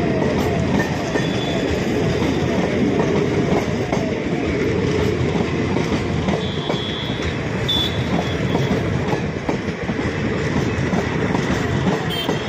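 Indian Railways passenger coaches rolling past at close range: a steady rumble of steel wheels on the track, with a clickety-clack as the wheels cross rail joints.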